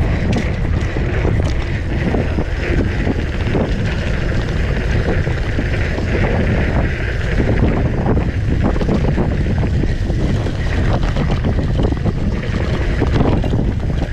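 Wind rushing over the microphone of a mountain bike on a fast trail descent, with the bike's frame, chain and tyres rattling and knocking over rough ground.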